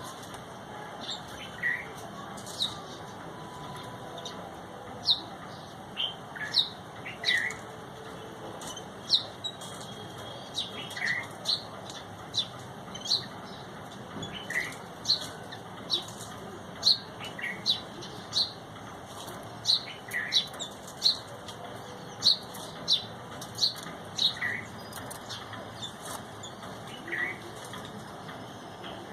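Birds giving repeated short, sharp chirps, one or two a second, each dropping quickly in pitch, some higher and some lower, over a steady background hiss.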